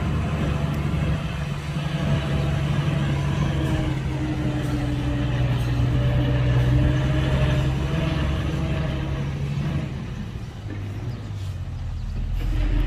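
Heavy diesel engine of earthmoving machinery running steadily with a slightly wavering pitch; it eases off about ten seconds in, and a deeper rumble rises near the end.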